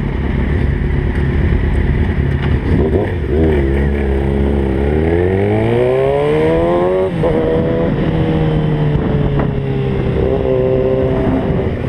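Motorcycle engine pulling away, its note climbing for about three seconds, then dropping suddenly at a gear change a little past halfway and running on steadily.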